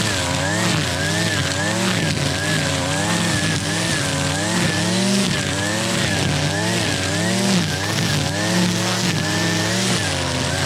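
Gas string trimmer (weed eater) running at high speed, its engine pitch rising and falling over and over as the spinning line cuts through tall grass and weeds.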